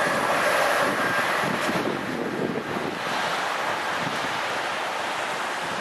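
Rush of air and rail noise from an Amtrak passenger train that has just passed, dying away gradually, with wind buffeting the microphone.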